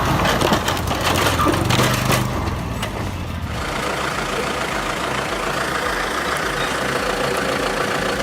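An engine running, then about three and a half seconds in the sound cuts abruptly to a different engine idling steadily.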